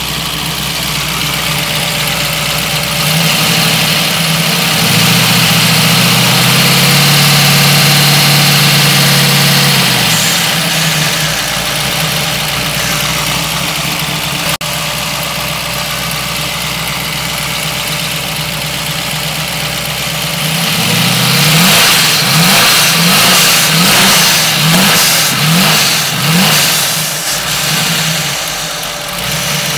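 Twin-turbo 1967 Chevrolet Camaro's engine idling, then held at raised revs for several seconds before dropping back to idle. Later it is blipped in a quick series of about seven short revs, then settles to idle.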